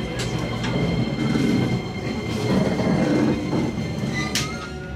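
JR Tokaido Line commuter train at a station platform: the train hums steadily, with a few thin steady high tones over the platform noise and a short sharp hiss about four seconds in.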